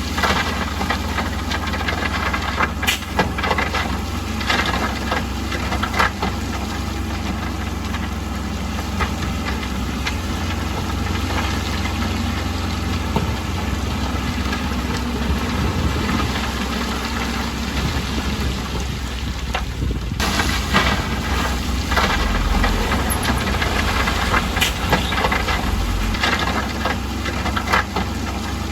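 Bulldozer's diesel engine running steadily, with occasional sharp clanks.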